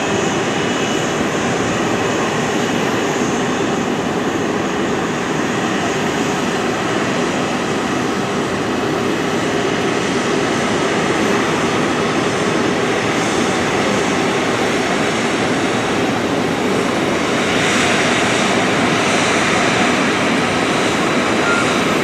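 Jet engine noise from an Airbus A330-300 with Rolls-Royce Trent 700 engines, a steady loud rush that grows a little louder about three-quarters of the way through.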